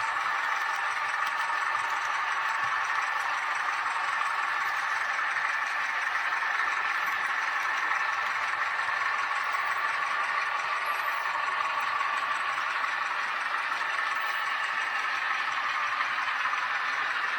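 H0-scale model train, a model Alco 313 diesel pushing a camera wagon, running along the track: a steady mechanical running noise of motor and wheels on rails, with no change in pace.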